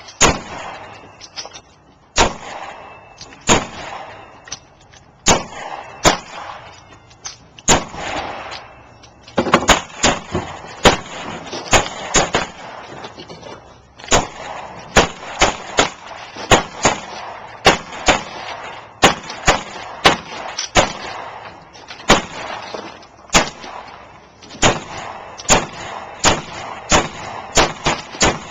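Pistol shots fired at a range: dozens of sharp cracks at uneven spacing, often one or two a second, with a few brief pauses.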